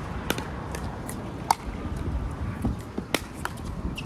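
Pickleball paddles hitting a plastic ball in a rally: sharp pops a second or so apart, with wind rumbling on the microphone underneath.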